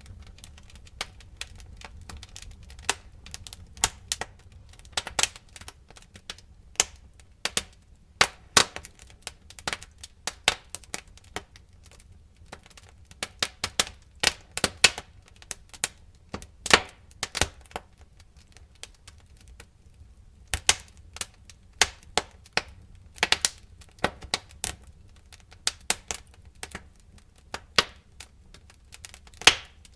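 Wood fire crackling: irregular sharp pops and snaps, some loud and some faint, over a low rumble.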